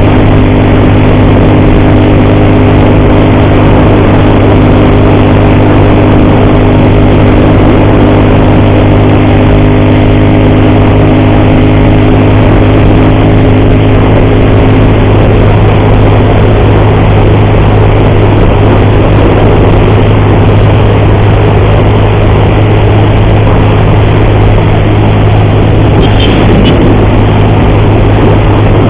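Motorcycle engine running steadily under way, with a constant rushing noise over it; the engine tone blurs into the rush about halfway through. The rider blames a worsening, ugly noise from the engine on the cam chain.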